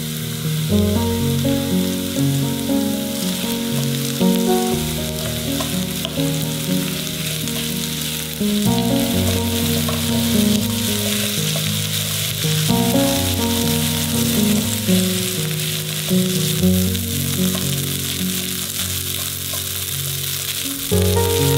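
Cabbage, sweet potato and egg batter frying in oil in a pan, sizzling steadily, under background music.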